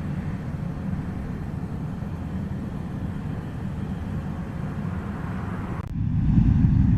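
Distant jet engines of a Southwest Boeing 737 at takeoff power, a steady rumble with hiss. About six seconds in it suddenly turns lower and louder.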